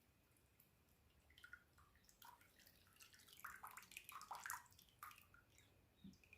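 Near silence with faint, scattered small ticks and drip-like plinks, busiest in the middle.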